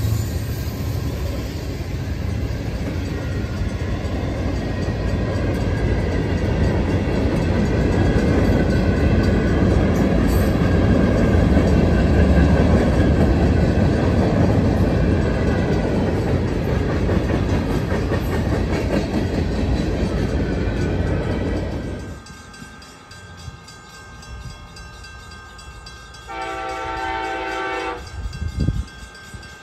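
A train passing close by with a loud, steady rumble that cuts off suddenly about two-thirds of the way in. A few seconds later a train horn sounds one short multi-tone blast.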